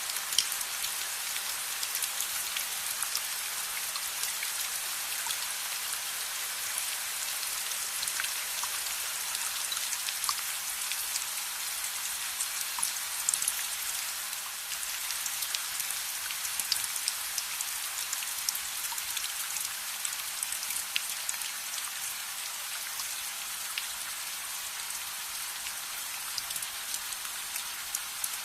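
Steady rain hissing and pattering, with scattered sharp crackles from a wood fire.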